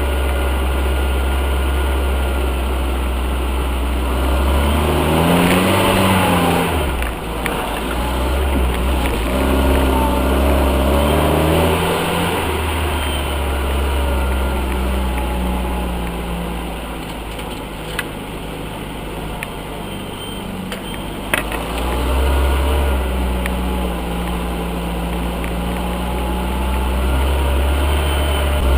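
UAZ off-roader's engine revving up and falling back in several surges, with a couple of sharp knocks partway through.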